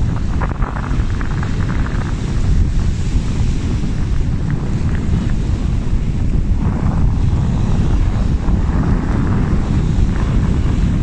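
Strong wind buffeting the microphone in a steady low rumble, with breaking surf hissing beneath it.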